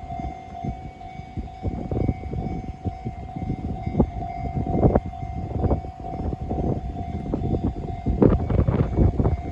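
Train passing a level crossing while the crossing warning bell sounds as a steady tone. Heavy gusts of wind buffet the microphone with irregular low thumps.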